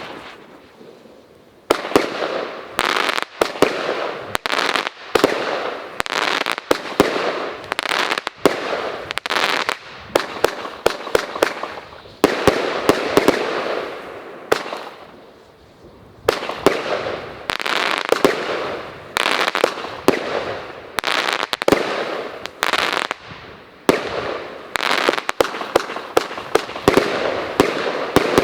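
Riakeo Toxic fireworks cake firing its shots in quick succession: after a short quiet start, sharp reports come several a second from about two seconds in, each trailing off into a fading rush of noise, with brief lulls about halfway and near the three-quarter mark.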